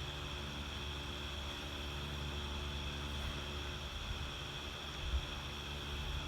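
Steady outdoor background of a frog chorus, a continuous high-pitched trilling drone, over a constant low hum, with a faint knock about five seconds in.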